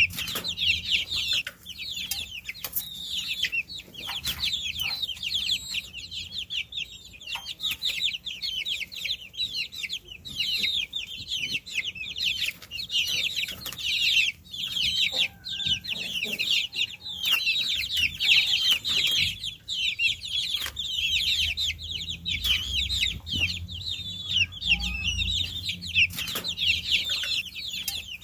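A brood of baby chicks peeping nonstop: many overlapping, high-pitched chirps, each a quick downward sweep.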